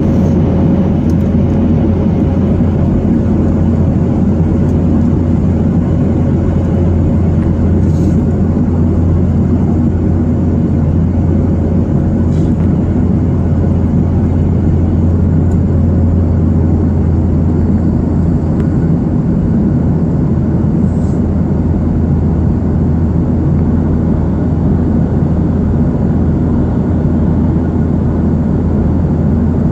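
Aircraft engine and airflow in flight, a loud, steady low drone with no rise or fall, as heard on board the plane.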